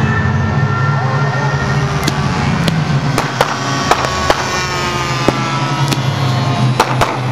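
Model aircraft engine running steadily in flight, with a scatter of about ten sharp clicks or snaps over the drone.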